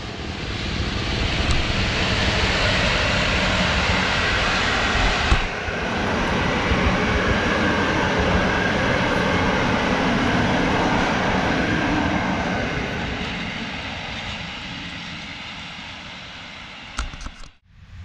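Locomotive-hauled passenger train passing: a steady rolling rumble and rush of wheels on rail that builds over the first couple of seconds, holds, then fades away from about twelve seconds in.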